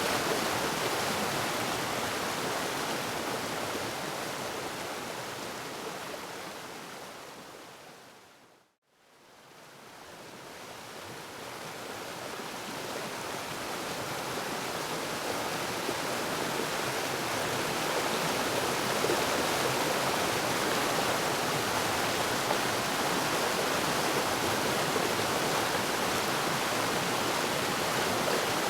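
Waterfall, a steady rush of falling water, that fades out to silence about nine seconds in and then gradually fades back up to full level: a fade at a loop or edit point in the recording.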